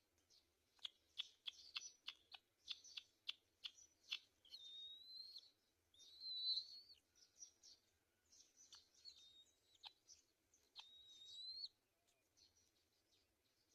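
Faint bird calls: a rapid run of short sharp chips, then several whistled notes of about a second each that rise in pitch, with chips scattered between them.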